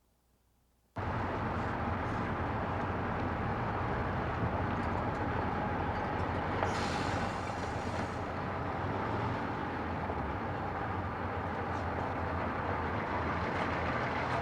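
Motor-vehicle noise, a steady rumble and hiss, cuts in abruptly about a second in. A burst of high hiss lasts about a second midway.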